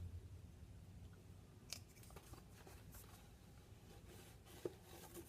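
Near silence: room tone, with a couple of faint handling clicks, one about two seconds in and another near the end.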